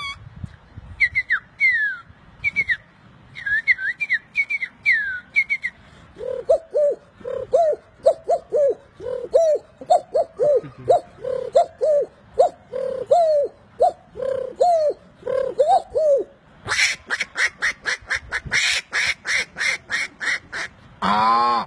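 A sequence of bird-like calls: short, falling whistled chirps, then a long run of low, evenly repeated dove-like cooing notes, then, about seventeen seconds in, a fast series of sharp clicks.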